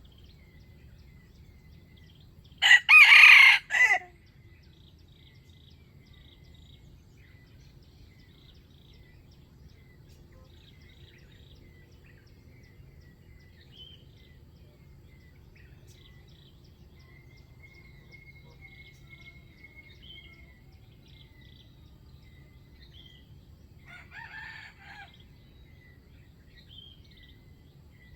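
Red junglefowl rooster crowing: one loud, close crow about three seconds in, and a fainter crow near the end, over small birds chirping.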